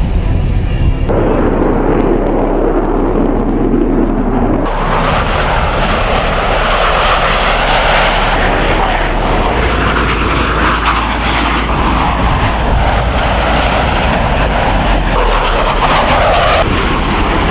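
Loud, steady jet engine noise from the Blue Angels' F/A-18 Super Hornet fighters flying at the airshow. The sound's character changes abruptly a few times.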